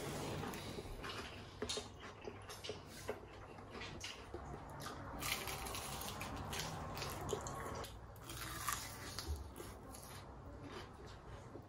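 Close-up eating sounds of glazed fried chicken: irregular crunchy bites and chewing, with wet mouth and lip-smacking noises.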